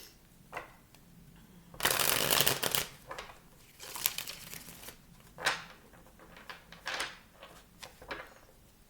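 A deck of tarot cards being shuffled by hand: a dense riffling rush about two seconds in, then several short snaps and taps as the cards are squared and handled.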